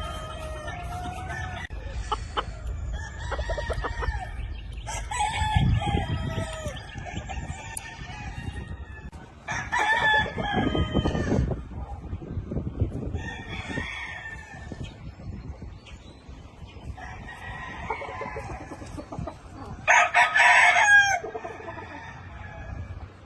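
Gamefowl roosters crowing again and again, one crow after another, with the loudest crows about ten seconds in and near the end.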